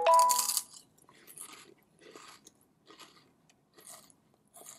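Crunchy potato chips being bitten and chewed. There is a loud crunch at the very start, then a steady run of softer crunches with each chew, about one every 0.7 seconds.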